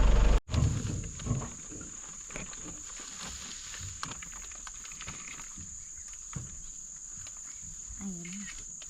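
A loud vehicle engine cuts off abruptly about half a second in, giving way to quiet jungle ambience: a steady high-pitched insect drone with scattered light clicks and knocks, and a short low call or grunt near the end.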